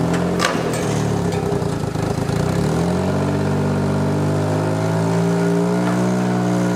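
Small garden tractor engine running steadily under load as it drags a heavy machine out on a chain. Its revs rise a little about three seconds in and hold there.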